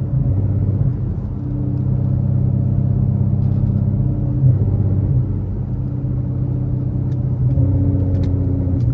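Infiniti Q50 3.7's VQ37 V6, breathing through test pipes and an ISR Y-pipe, running at low steady revs with a low drone, heard from inside the car.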